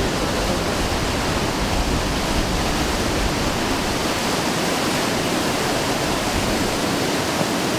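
Fast-flowing whitewater rushing steadily down a whitewater course, an even, unbroken noise.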